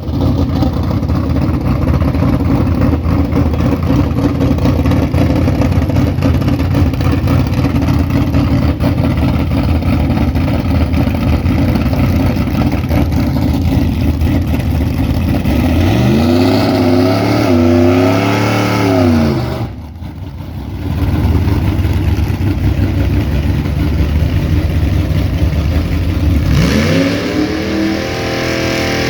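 A Tri-Five Chevy's engine held at high revs through a burnout, a loud steady drone. Past the halfway point the pitch climbs and wavers as the throttle is worked, then drops briefly. Near the end it revs up again.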